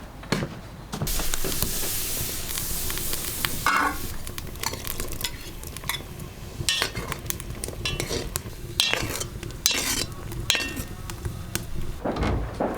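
Food sizzling in hot oil in a pan. The hiss starts loudly about a second in and dies down after a few seconds, followed by repeated scraping and clinking of a utensil against the pan as the food is stirred.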